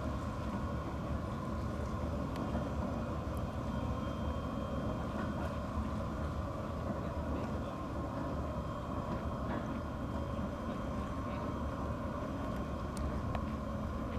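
Steady low rumble with a faint whine from a railroad swing bridge's drive machinery as the span turns closed.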